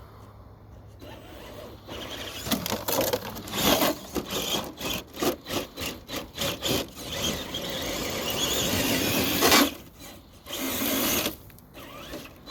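RC truck's electric brushless motor (Castle 3800 kV) whining in short throttle bursts, starting about two seconds in, with tyres spinning and scrabbling in loose sand as it fights up a slippery slope. Near the end comes one longer pull of a couple of seconds, then one more short burst.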